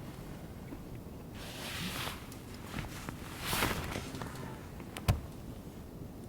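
Two brief rustling swishes, then a single sharp knock about five seconds in, over a steady low background.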